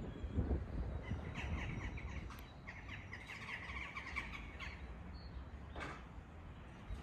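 A bird calling in a harsh, rattling chatter for about three seconds, starting about a second and a half in, over a low outdoor rumble that is loudest at the start.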